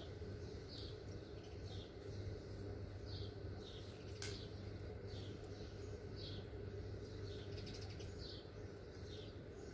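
A bird chirping over and over, short high chirps about every three-quarters of a second, over a low steady hum. A single sharp click comes about four seconds in.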